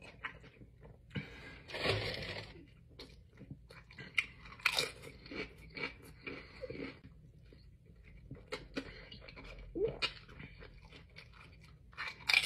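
Close-up eating sounds: chewing and crunching bites of a toasted burrito and tortilla chips, with a louder crunch about two seconds in and a crisp chip bitten near the end.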